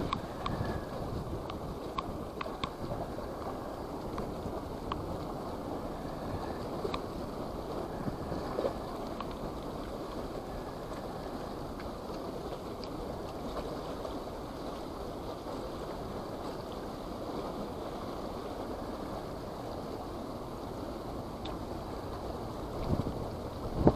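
Strong wind rushing over the microphone, a steady low rumble, with a few faint clicks.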